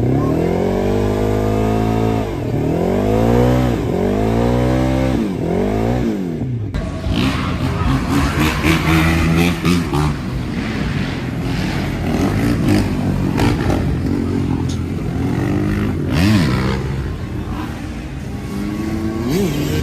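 Car V6 with a near straight-piped 3-inch exhaust revving up and falling back four times in quick succession. About seven seconds in the sound changes suddenly to the engine running under rougher noise, with short blips of revs near the end.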